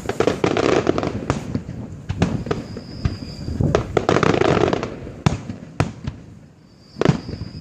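Fireworks display: repeated bangs of bursting shells over dense crackling, with a high whistle about three seconds in. There is a short lull near the end, then another loud bang.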